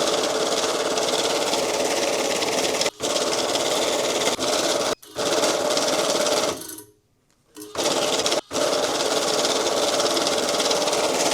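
Electric banknote counter running steadily as it feeds and counts a stack of bills, cutting out briefly three times and stopping for about a second a little past halfway between batches.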